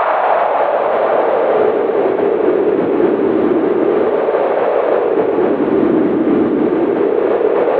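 Cold winter wind howling in a steady gust. Its whoosh sinks lower in pitch about a second in and rises again near the end.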